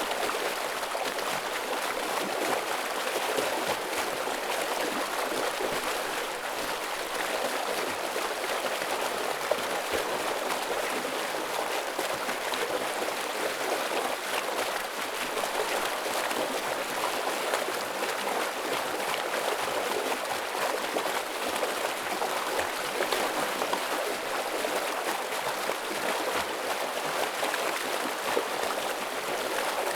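Heavy stream water rushing and splashing over rocks, a steady full rush with fine bubbling and spattering detail.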